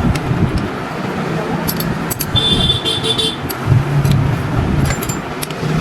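Motor vehicle noise with a low engine hum, a short high-pitched horn toot about two and a half seconds in, and a few sharp clicks.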